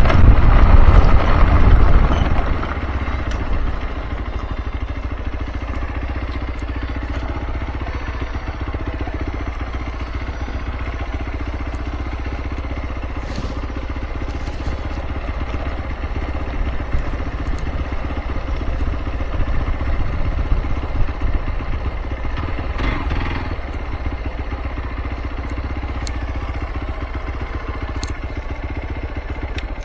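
Hero XPulse 200 Pro's single-cylinder engine, louder for the first couple of seconds and then settling into a steady idle.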